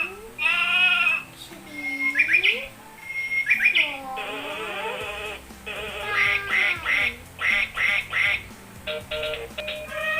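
A sequence of recorded animal sound effects pressed one after another, with short chirps early on and a quick run of duck quacks near the middle, over light background music.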